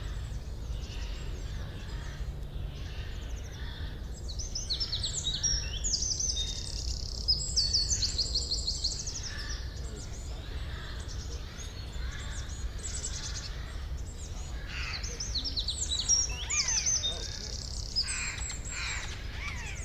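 Songbirds singing: quick runs of high chirps and trills, busiest about four to nine seconds in and again from about fifteen seconds, over a steady low rumble.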